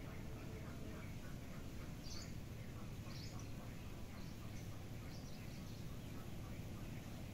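Birds chirping: a handful of short, high chirps a second or so apart, over a steady low rumble of outdoor background noise.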